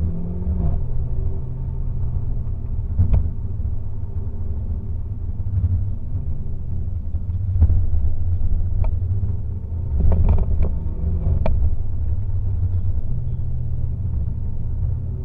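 Mercedes A45 AMG's turbocharged 2.0-litre four-cylinder, through its AMG performance exhaust, running steadily at low revs with a deep rumble. Its note shifts only slightly, and several short sharp pops or clicks break through in the middle stretch.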